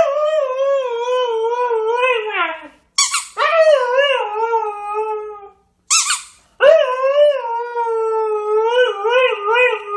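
Siberian husky howling in three long, wavering calls of two to four seconds each, its pitch sliding up and down, with short sharp noises between the calls.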